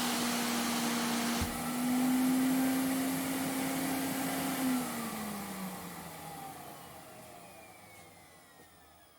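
Vacuum cleaner motor running steadily, then switched off about five seconds in: the motor winds down, its whine falling in pitch as the sound fades away.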